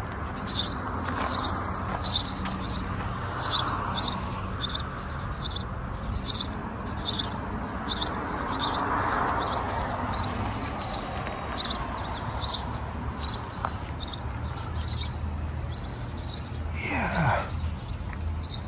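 A small songbird chirping over and over, short high chirps about twice a second, over a steady low background hum. Near the end comes a brief sound sliding down in pitch.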